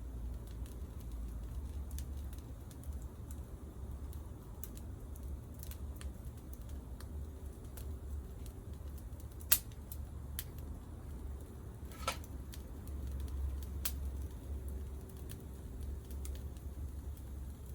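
Wood campfire crackling, with scattered sharp pops, the loudest one about nine and a half seconds in and another about twelve seconds in, over a low steady rumble.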